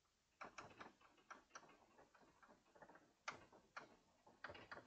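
Faint, irregular taps and short scratches of chalk writing on a blackboard, a few strokes a second.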